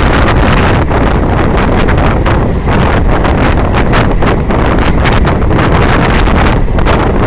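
Strong wind buffeting the microphone: a loud, steady, gusty rumble with rapid fluttering throughout.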